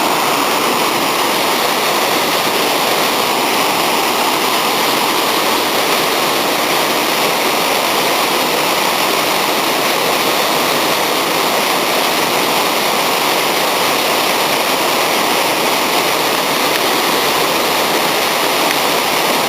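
Waterfall (Konaka Ōtaki) pouring steadily: a loud, even rush of falling water that does not change.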